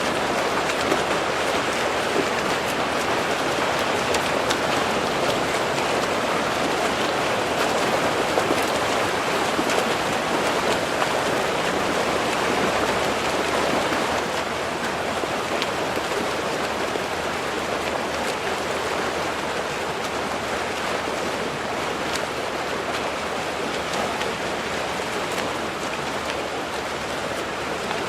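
Swim meet ambience: a steady wash of splashing water from swimmers racing in a pool, getting slightly quieter about halfway through.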